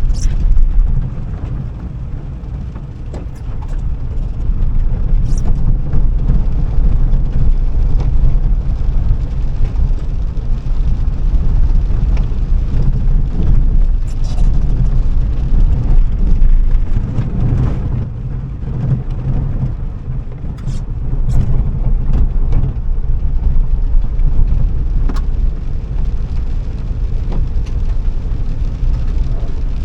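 Car being driven, a steady low rumble of engine and road noise with a few sharp ticks scattered through it.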